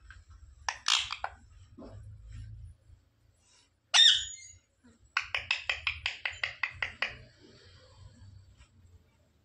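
Pet green parrot calling: a short burst of chatter about a second in, one loud sharp squawk about four seconds in, then a rapid run of about a dozen clipped notes, roughly six a second, lasting about two seconds.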